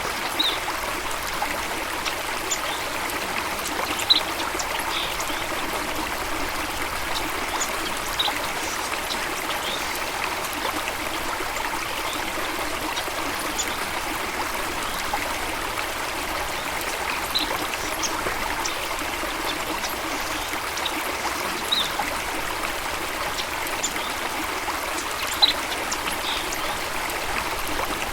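Steady flowing water, a constant rushing and trickling, with a few brief high-pitched sounds standing out now and then.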